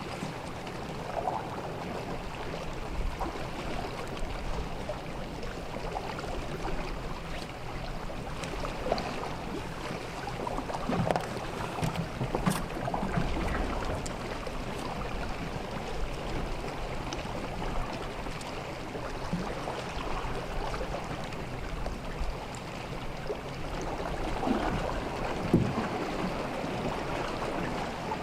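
Sea water lapping and splashing at the shore, with small irregular splashes over a steady wash and a low rumble underneath.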